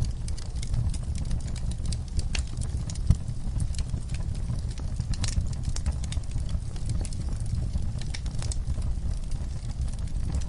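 Wood fire crackling: irregular sharp pops and snaps over a low steady rumble of the flames, with one louder pop about three seconds in.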